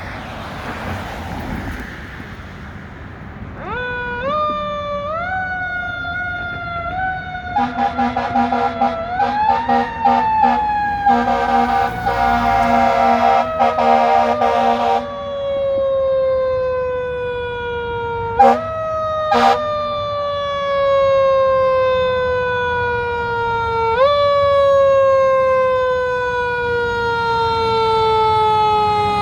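Siren on a 2019 Pierce Enforcer fire engine winding up in steps and then falling slowly in pitch. Air horns blare for several seconds partway through, followed by two short blasts. The siren then winds up again and falls away slowly.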